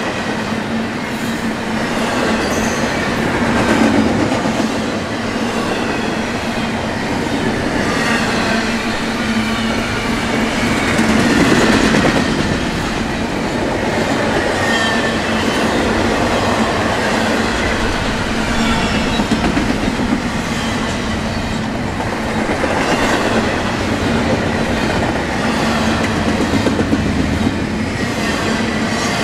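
Double-stack intermodal container train rolling past: a steady, loud run of steel wheels on rail and rattling well cars, swelling a little about four and twelve seconds in.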